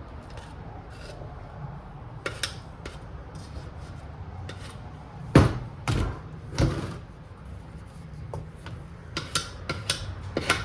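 Handling clatter of a body filler can and the tools used to scoop it: light scraping and clicks, with three loud knocks a little past halfway and a cluster of sharp clicks near the end.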